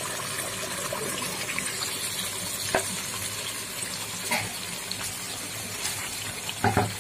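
Oil and masala sizzling steadily in a cooking pot as marinated mutton pieces are added. There are a couple of light clinks, and a brief louder noise comes near the end.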